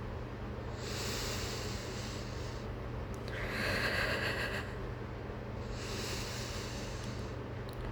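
A person breathing shakily during an anxiety attack, three long audible breaths a couple of seconds apart, over a steady low hum.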